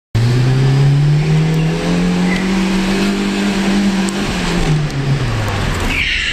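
A 1992 Opel Corsa's 1.4 four-cylinder petrol engine is revved hard, heard from inside the cabin. The revs climb and hold high, then drop off about four seconds in. A high squeal sets in near the end.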